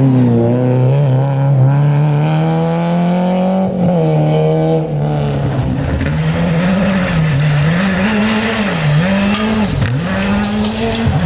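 Rally car engine under hard acceleration: the pitch climbs steadily for about four seconds and drops sharply at a gear change. After that the revs rise and fall several times in quick succession as the throttle is lifted and reapplied, with one deeper dip near the end.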